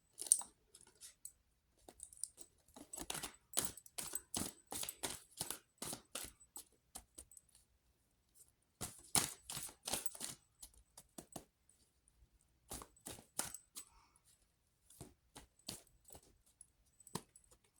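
Tarot cards being shuffled and handled, in several bursts of quick clicking.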